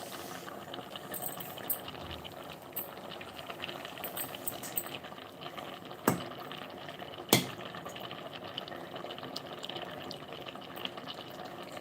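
Food frying in hot oil in a pan, a steady sizzle full of fine crackles. Two sharp clicks cut through it, about six and seven seconds in.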